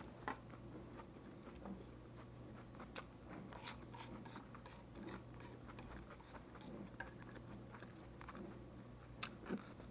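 A person chewing a mouthful of bulgogi lettuce wrap close to the microphone: faint, scattered wet clicks and soft crunches of lettuce and meat, busiest in the middle.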